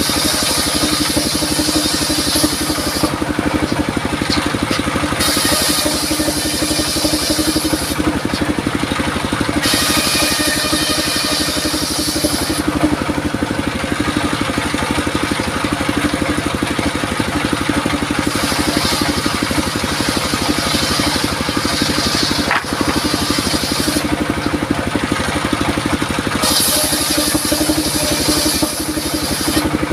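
Circular saw running with a steady hum while its blade cuts durian wood, a high hissing whine that comes and goes in about five cuts of a few seconds each.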